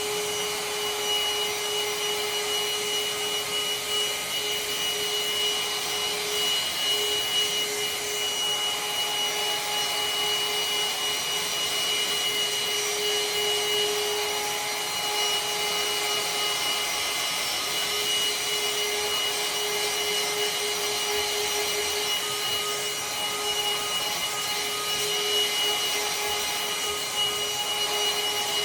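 Parkside PHSSA 20 Li C1 20V cordless handheld vacuum cleaner running steadily: a steady motor whine over a hiss.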